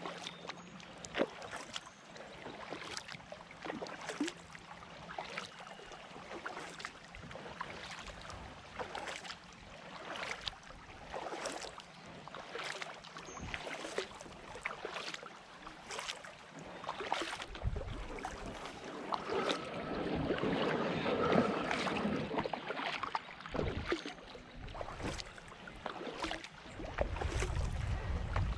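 Kayak paddling: the paddle blades dip and splash in the water over and over, with short sharp splashes about a second apart and water running off the blades. Near the end, wind rumbles low on the microphone.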